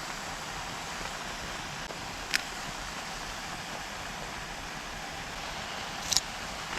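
Steady hiss of rain, with two sharp taps standing out, one about two seconds in and one near the end.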